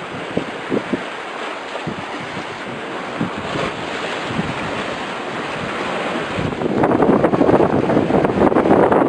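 Wind buffeting the microphone over the wash of sea waves, the buffeting growing much louder about two-thirds of the way through.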